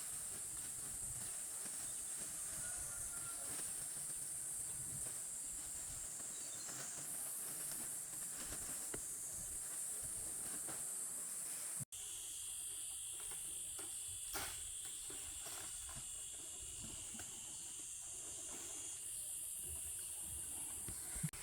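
A steady, high-pitched chorus of insects shrilling, stepping up and down in level, with scattered faint knocks and clicks. It drops out for an instant just before the middle, and a second, lower insect tone joins after that.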